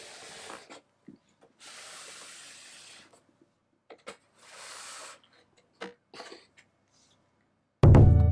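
Three bouts of scraping on cardboard, each a second or so long, with a few light knocks in between. Loud music begins near the end.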